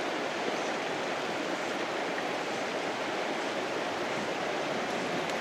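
Steady rushing of river water over stones, an even wash of noise with no other events.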